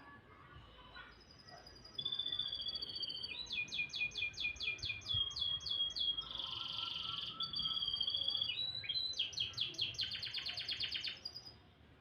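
Domestic canary singing one long, varied song that starts about two seconds in: clear whistled notes, rapid rolling trills, a buzzy passage in the middle and a fast trill near the end.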